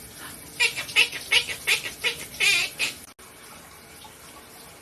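Parrot squawking in a quick run of short, sharp calls, some with a wavering pitch, which stop about three seconds in.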